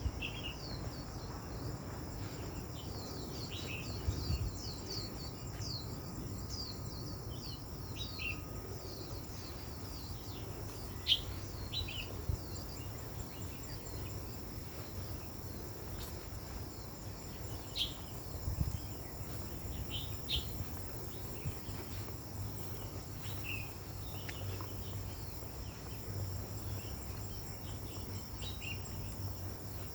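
Outdoor nature ambience: a steady high drone of insects with birds chirping in short calls throughout, over a low rumble.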